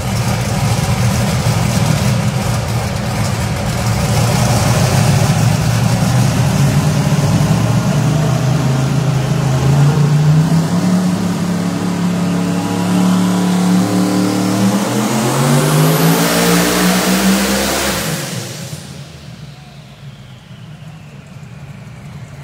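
Castle Hill Performance Commodore's engine on a dyno, running at low steady revs and then pulling through one long rising sweep of revs over about ten seconds before cutting off sharply; a faint whine falls away afterwards. This is a full-power dyno run, the pull that made 2604 hp.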